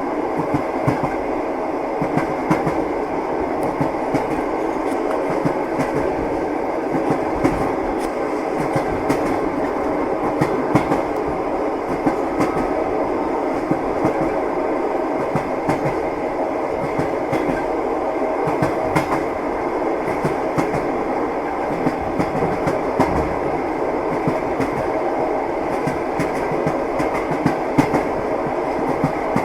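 Train wheels clicking over rail joints with the steady rumble of a moving passenger car, heard from inside the carriage.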